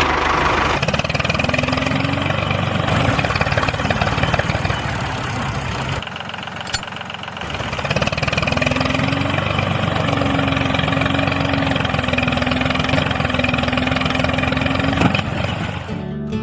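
A motor running steadily with a rapid chugging pulse and a faint whine, easing off for a couple of seconds around the middle before picking up again.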